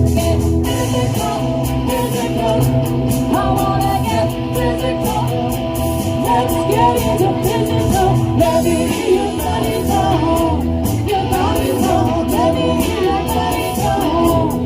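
Live rock band playing an 80s pop-rock cover, with a female lead singer over electric guitar and drums.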